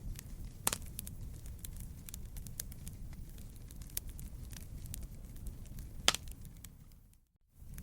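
Fire in a fireplace crackling, with a steady low rumble, constant small snaps and two louder pops. Near the end it fades out briefly and comes back.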